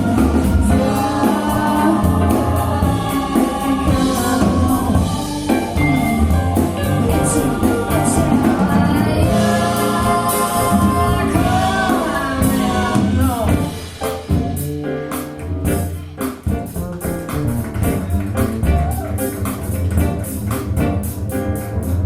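A song with a lead vocal over bass and drums, played back through JBL Studio 590 floorstanding loudspeakers. About two-thirds of the way through, the singing drops out and plucked guitar, bass and drums carry on.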